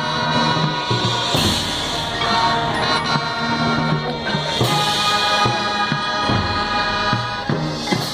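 Marching band playing: brass and winds hold loud chords over drum-line strokes.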